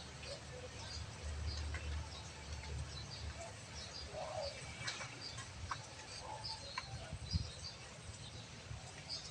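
Small birds chirping over and over in short high notes, with a few scattered faint clicks and knocks.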